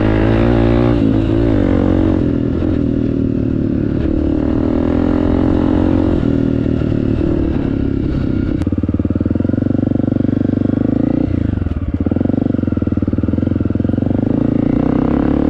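Honda CRF250F single-cylinder four-stroke dirt bike running through an FMF aftermarket exhaust while being ridden. Its pitch rises and falls with the throttle, easing off briefly a little past halfway.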